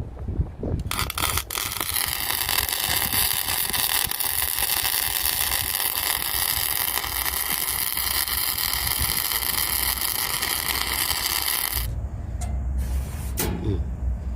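A power tool's motor runs steadily with a high whine and hiss for about eleven seconds, then cuts off, leaving a low rumble and a few knocks near the end.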